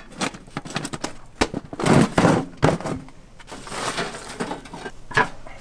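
Irregular clattering knocks and crunching scrapes, with a louder rasping surge about two seconds in.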